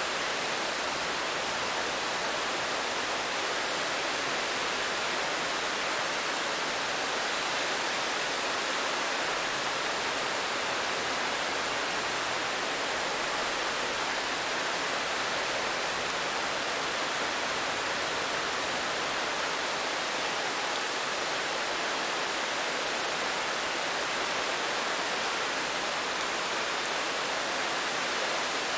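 Steady rain: an even, unchanging hiss with no single drops standing out.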